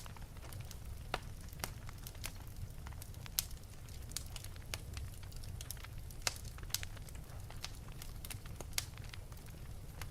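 Wood fire burning in an open fireplace, crackling with irregular small snaps and a few louder pops over a steady low rumble.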